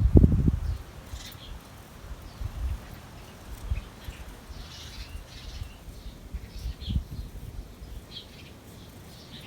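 Birds chirping outdoors: short, scattered high calls. Low thuds fade out in the first second.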